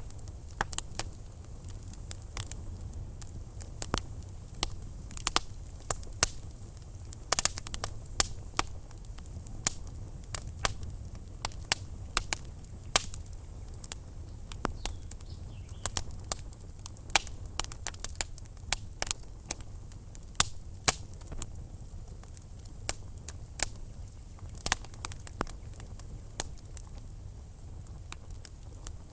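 Wood fire crackling in a fireplace: irregular sharp pops and snaps, some much louder than others, over a steady low rumble of the flames.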